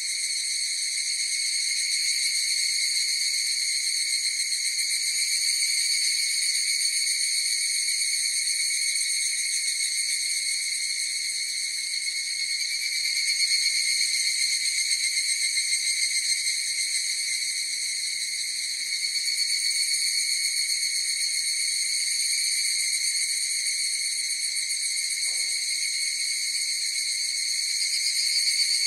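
Chorus of higurashi (evening cicadas) calling: a continuous high-pitched ringing that swells a little now and then without breaking.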